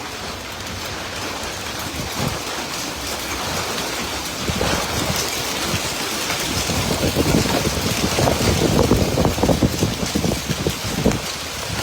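Hail pelting down with wind buffeting the microphone, a dense patter that grows heavier about halfway through.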